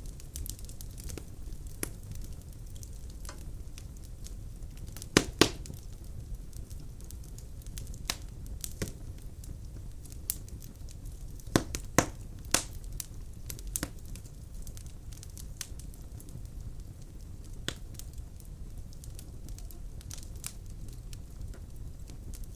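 Fire burning in a fireplace and crackling, with frequent small crackles over a steady low rumble. A few louder pops come in pairs about five seconds in and again around twelve seconds in.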